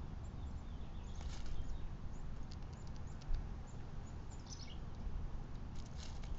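Small birds chirping in a few short calls over a steady low rumble.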